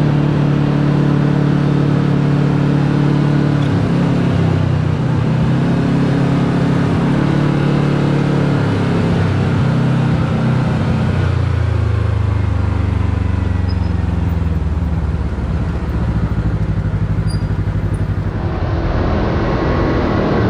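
Can-Am Maverick X3 side-by-side's engine running while under way. Its pitch holds steady for the first half, drops lower about halfway through as it slows, and climbs again near the end.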